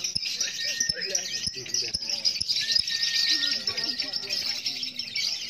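Lovebird chattering in a long, fast, high-pitched trill without a break (the 'ngekek' sought from a contest bird).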